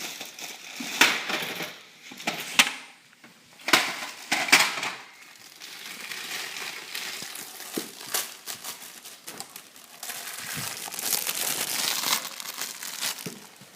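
A cardboard box with a shoe inside being opened by hand, with its lid and wrapping rustling and crinkling. There are sharp crackles in the first few seconds and denser crinkling near the end.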